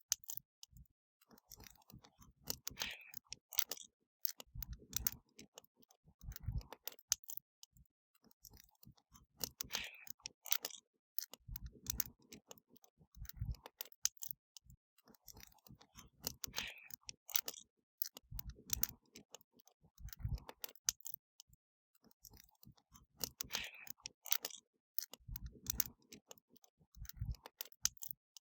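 Wood fire crackling: quick sharp snaps and pops with occasional low thuds. The same run of crackles repeats about every seven seconds.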